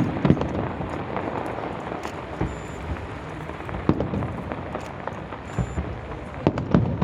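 Fireworks crackling in a dense, continuous stream of small pops, with a few louder bangs standing out, about a second in, near four seconds and near the end.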